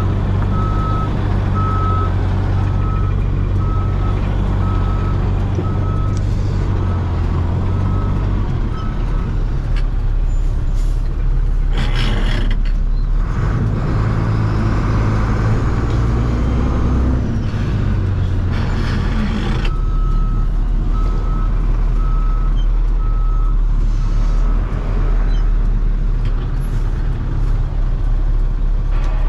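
A heavy diesel engine running steadily, with a back-up alarm beeping for the first several seconds and again after about 20 seconds. Two short bursts of hiss come at about 12 and 19 seconds.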